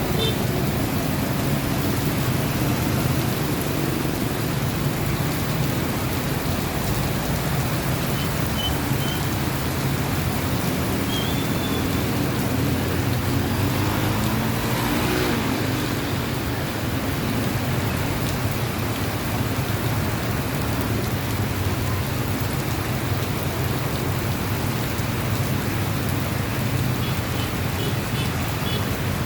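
Heavy monsoon rain falling steadily, an even hiss of rain on surfaces.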